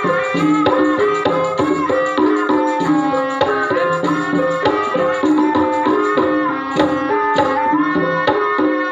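Javanese gamelan music for an ebeg dance: pitched melody notes over a steady stream of hand-drum strokes.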